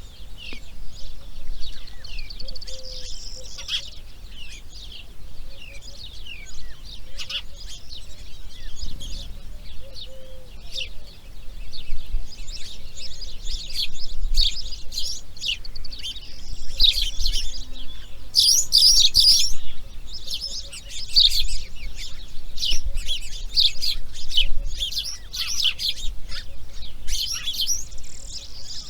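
Birds chirping and calling, many short overlapping calls, growing busier and louder about halfway through.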